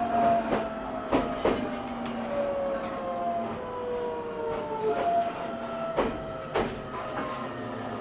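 Onboard running sound of an E127 series 0 electric train: the traction motors' tones slowly fall in pitch as the train slows, with the wheels clacking sharply over rail joints a few times.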